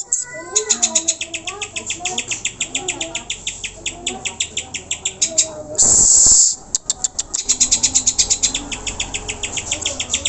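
Greater green leafbird (cucak hijau) singing a fast, even run of high, sharp chirps, about eight a second. About six seconds in, a loud harsh rasp of under a second breaks the run, then the rapid chirping starts again.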